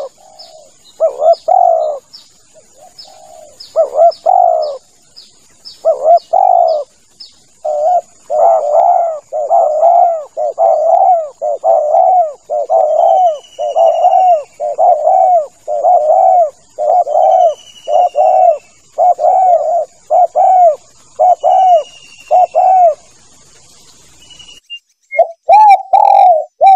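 Spotted dove (tekukur) cooing over and over, a loud run of coo notes about one a second with short breaks. Higher chirps and thin whistles of other small birds and a faint steady high tone sit behind it.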